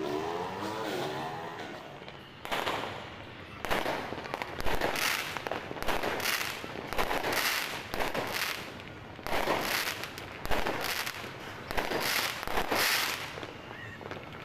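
New Year fireworks and firecrackers going off: a run of repeated bangs with crackling, bursting about once or twice a second and fading near the end. In the first two seconds a wavering pitched whine comes before them.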